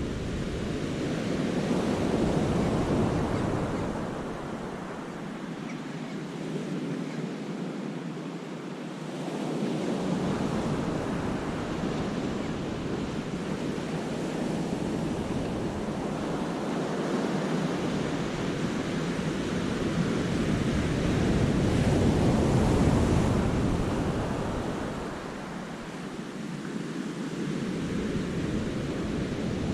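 Sea waves crashing and washing among rocks in a cove, swelling and fading in slow surges, with wind rumbling on the microphone at times.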